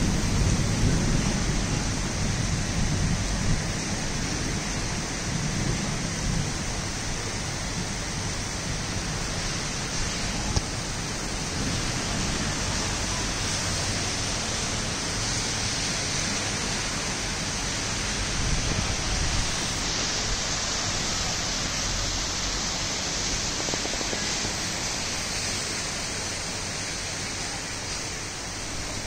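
Heavy monsoon rain falling steadily, a continuous hiss of rain on roofs and the street. A low rumble dies away in the first few seconds, and the rain eases slightly near the end.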